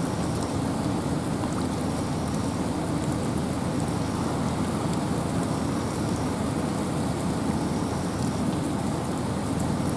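Steady rain falling in a forest, with wind making a steady low rumble and scattered drops ticking.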